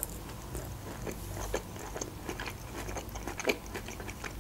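Close-miked mouth sounds of a person biting into and chewing a slice of fresh tomato, heard as scattered short clicks and smacks.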